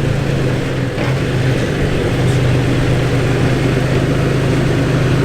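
Off-road truck engine running steadily at low revs while crawling over rocks.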